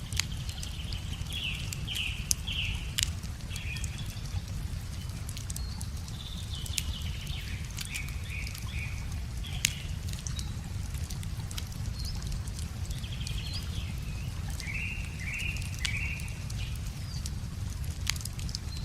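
Wood fire crackling, with scattered sharp pops, over a steady low rushing from the river. A bird sings short phrases three times: near the start, in the middle and toward the end.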